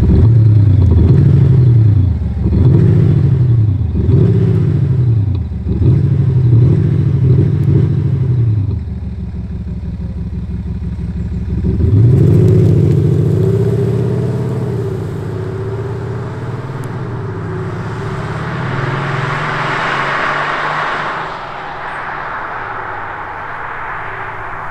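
BMW 730d (F01) 3-litre turbodiesel with an aftermarket active sound actuator in A mode, giving a deep V8-style burble without pops, the misfire effect switched off. It is revved in about five blips, each pitch rising and falling, then once more about twelve seconds in, and near the end a rising hiss swells and fades as the car pulls away.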